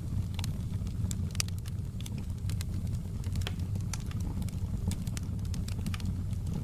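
Wood fire burning in a stone fireplace: a steady low rumble of the flames with frequent irregular crackles and pops of the burning wood.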